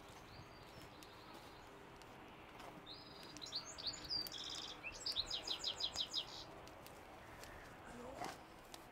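A songbird singing: a few high chirps, then a quick run of about ten evenly spaced notes.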